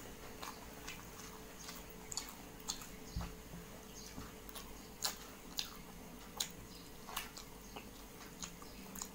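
Close-miked chewing of chicken curry: irregular wet mouth clicks and smacks, about one or two a second, loudest in the middle stretch.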